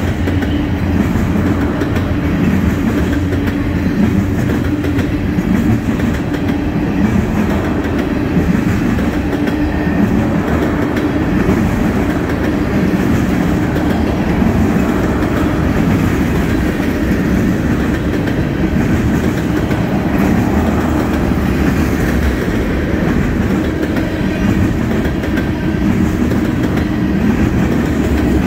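Tank cars of a freight oil train rolling past: steel wheels on the rails making a loud, steady rumble with a clickety-clack of wheels over the rail joints.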